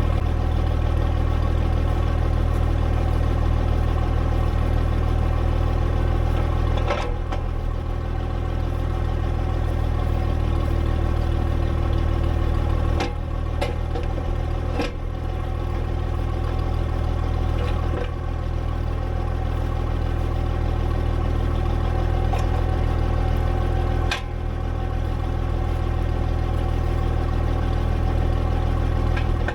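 International Harvester 706 tractor engine running steadily at idle while the front loader hooks onto a bale spear. A handful of metal clunks are spread through it, with the engine note dipping slightly at each.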